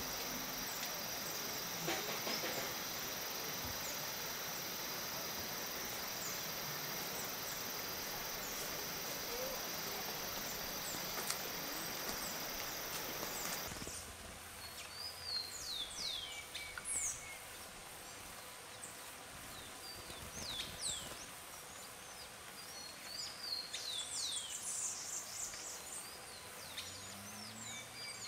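Rainforest ambience: a steady hiss with a constant high-pitched whine for the first half, then, after a sudden change about halfway through, a quieter background with many short bird chirps sweeping up and down in pitch.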